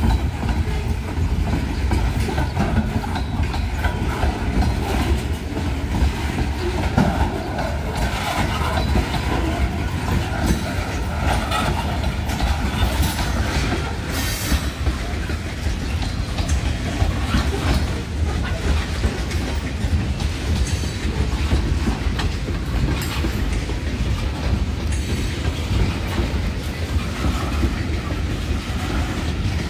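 Freight train of open-top cars rolling past: a steady rumble of steel wheels on rail, with irregular clatter and knocks as the wheels cross rail joints.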